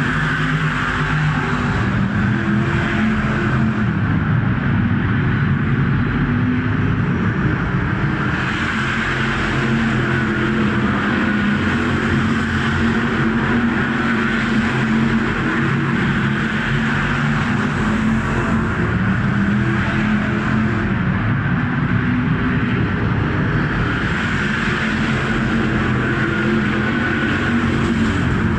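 V8 stock car engines running hard while racing: a loud, continuous engine note whose pitch rises and falls a little as the cars lap.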